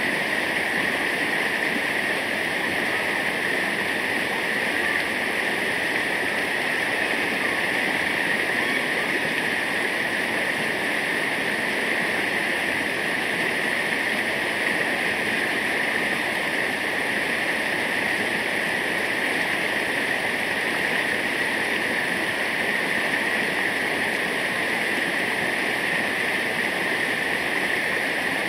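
Waterfall: steady rushing of falling water, even and unbroken.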